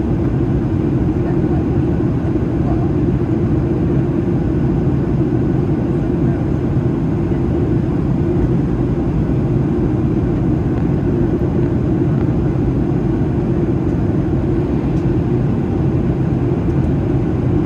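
Steady cabin noise inside a Boeing 737-800 airliner during descent: its CFM56-7B jet engines and the airflow over the fuselage make a constant low rumble with no change in pitch or level.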